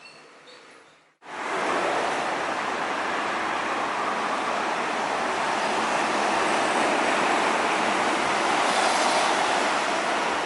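Steady rushing road noise of heavy traffic on a toll road, starting abruptly at a cut about a second in.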